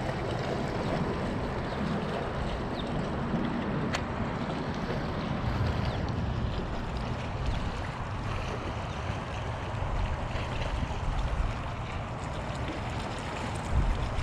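Waves washing along the shore, a steady rush, with wind rumbling on the microphone that gusts up near the end. A single sharp click about four seconds in.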